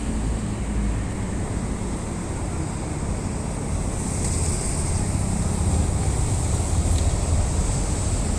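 Steady low outdoor rumble with a faint, even high-pitched hiss above it and a couple of faint ticks near the end.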